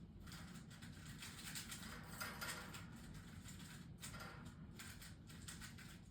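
Budgerigars making faint, scratchy chatter with small clicks, loudest about two seconds in.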